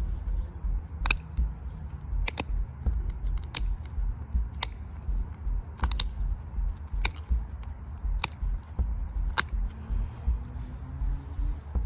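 Stone being knapped into a spear point: sharp clicks of flakes coming off under an antler or copper tool, about once a second, eight in all, over a low rumble.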